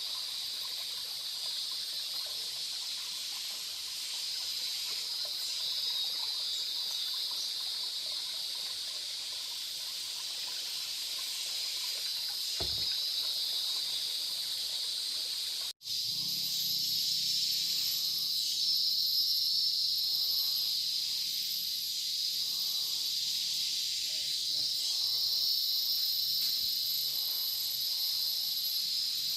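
Steady, high-pitched chorus of forest insects droning without pause. The sound cuts out for an instant about sixteen seconds in.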